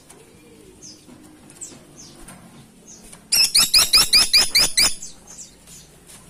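Caladi tikotok (grey-and-buff woodpecker) calling: a loud, quick run of about ten sharp, high, hooked notes, about seven a second, starting about three seconds in and lasting about a second and a half. Faint single high chirps come before and after it.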